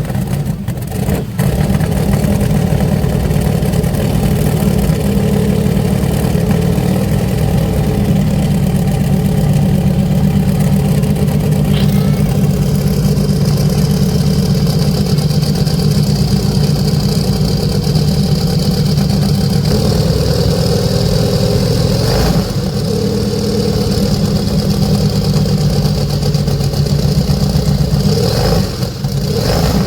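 Helicopter's radial piston engine running steadily and loudly after being started, with a high whine setting in about a third of the way through.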